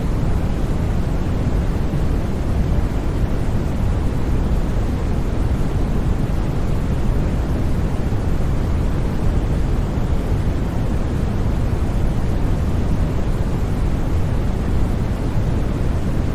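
Continuous artificial sleep noise, sold as white noise, but heaviest in the bass so it comes across as a deep, even rush rather than a bright hiss. It is steady and unchanging, with no sudden sounds.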